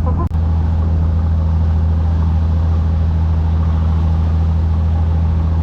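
Engine running steadily at a constant speed, a loud low drone that holds one pitch, with a momentary drop-out about a third of a second in.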